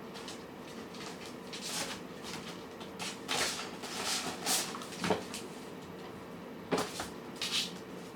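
Cats eating from food bowls: scattered short scraping and chewing noises, with two sharp knocks of a bowl in the second half, over a faint steady hum.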